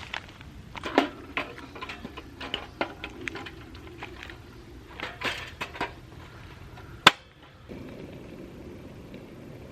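A run of light knocks and clinks from objects being handled and set down, then one sharp click about seven seconds in, after which only a steady low background remains.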